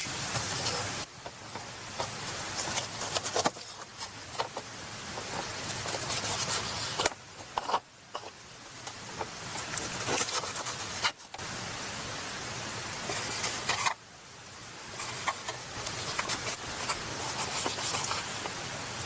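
Thick-cut beef tongue sizzling on a grill over charcoal: a steady hiss with small pops and crackles, breaking off and resuming at a different level several times.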